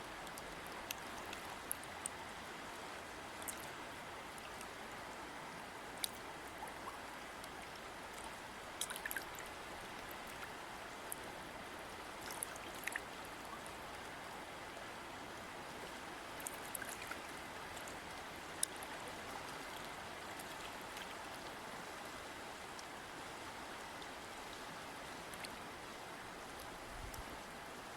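River water flowing steadily, an even rushing with many small splashes and drips ticking through it.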